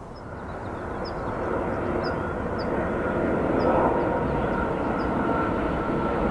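Jet airliner on approach to land, its engine noise swelling to a peak about four seconds in and holding, with a steady high whine from the engines over the rumble. Short high chirps repeat throughout.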